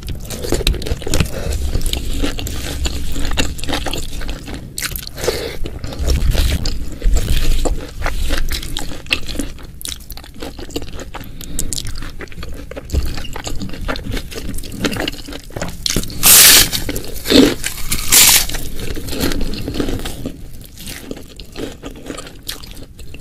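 Close-miked eating sounds: chewing with crunching and wet squishing, full of small clicks. Two loud, short rushes of noise come about two-thirds of the way through.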